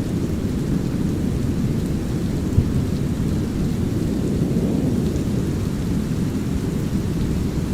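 Steady brown noise mixed with light rain and low thunder, the sound heaviest in the bass. One brief louder pop comes about two and a half seconds in.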